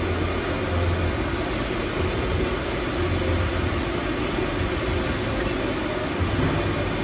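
Automatic toilet paper band saw cutting machine running: a steady mechanical noise with a low hum that swells and eases slightly.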